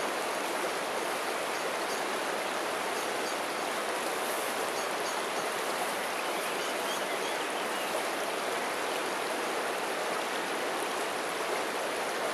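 River water flowing, a steady rushing hiss with no break.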